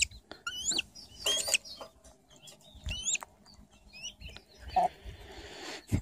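A bird chirping: short, high chirps at irregular intervals, several with a quick rise and fall in pitch.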